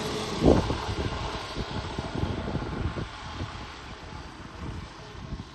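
Wind buffeting the microphone: a rushing hiss with irregular low rumbles and one louder thump about half a second in.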